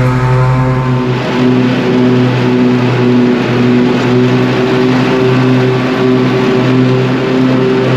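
Lawn tractor engine running steadily under load while mowing wet, long grass.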